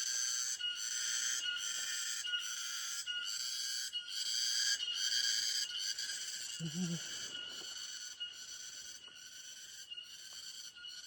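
A cicada calling: a high, buzzing song pulsing at about three beats every two seconds. It grows fainter over the last few seconds.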